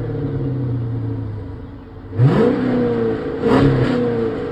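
2006 Chrysler 300C's 5.7 HEMI V8 on its factory exhaust, idling and then revved twice: a sharp rev about two seconds in that falls back, and a shorter blip a little over a second later, settling back to idle.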